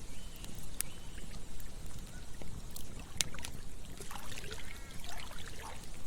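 Campfire crackling, with sharp pops scattered through it, over a trickling stream.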